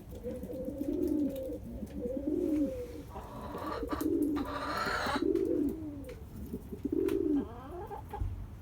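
Birds cooing: a run of low, arching coos repeating about once a second, with a harsher, brighter call about three seconds in.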